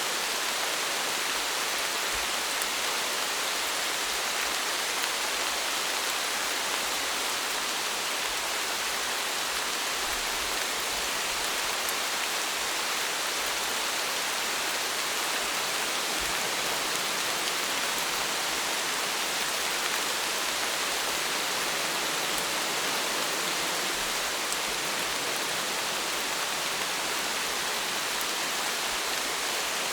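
Steady rain falling, an even hiss of many drops with a few sharper drop ticks scattered through.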